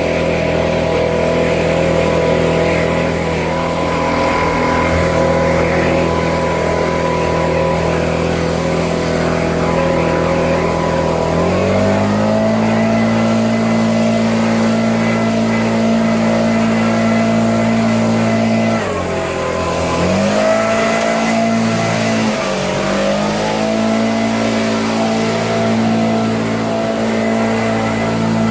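Exmark 48-inch mower engine running steadily. Its speed steps up about eleven seconds in, then sags twice briefly and recovers, as if under load.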